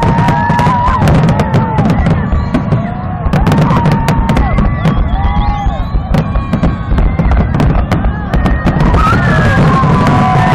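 Aerial fireworks going off in a dense barrage: rapid bangs and crackles over a steady low rumble.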